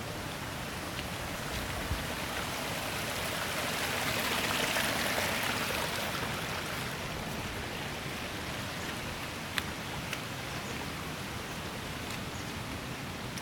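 Steady rush of falling water, swelling louder about four to six seconds in, with two sharp clicks along the way.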